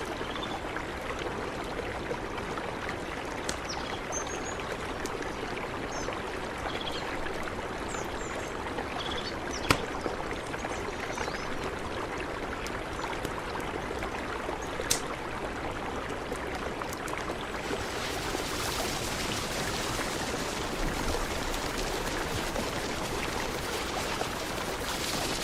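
Mountain river flowing, a steady rush of water. Two sharp clicks cut through it, about ten and fifteen seconds in.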